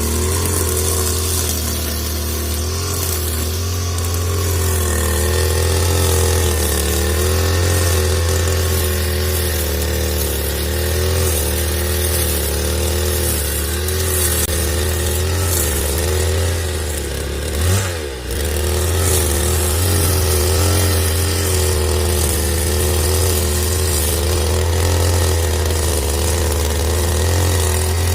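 Gasoline brush cutter running at speed, its engine pitch wavering as it cuts weeds with nylon trimmer line. About two-thirds of the way through the engine briefly drops off and picks up again.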